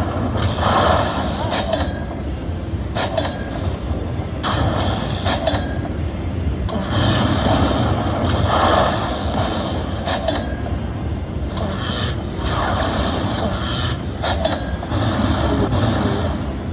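Slot machine being played spin after spin: a noisy burst every few seconds with short high chimes as each spin settles, over a steady low rumble of casino-floor din.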